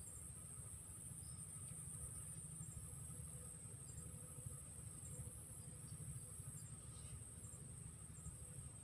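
Steady high-pitched trilling of insects, such as crickets, with a few short chirps over it and a low rumble underneath.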